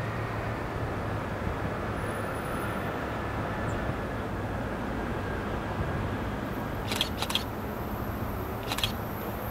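Amtrak Acela Express trainset approaching at speed from a distance, heard as a steady rushing noise. A faint high whine comes in about seven seconds in, with a few sharp clicks near the end.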